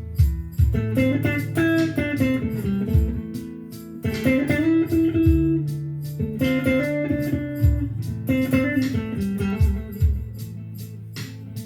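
Blues played on electric guitar, lead phrases with bent notes over a steady bass line and drum beat.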